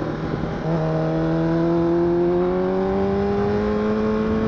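Honda CBR1000RR (SC57) inline-four engine heard from the rider's seat: after a brief break in the first second, the revs climb slowly and steadily, over a steady rushing noise.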